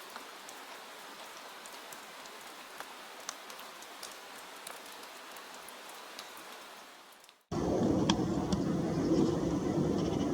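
Soft rain sound effect: an even hiss with scattered drop ticks, fading out about seven seconds in. It then cuts abruptly to a much louder, steady, low rumbling noise.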